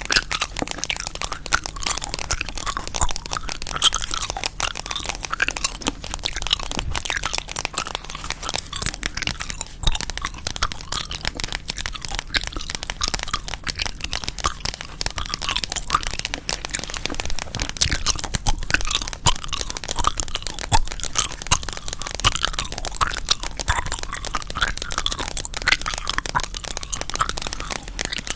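Gum being chewed close to the microphone: a dense, continuous run of small sharp clicks and smacks.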